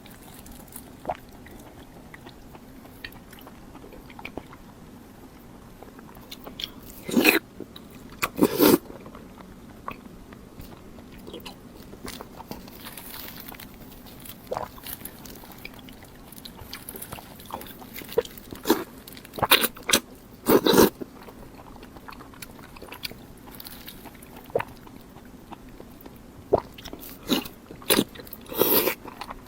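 Close-miked eating: crisp bites and crunchy chewing that come in clusters with quieter pauses between.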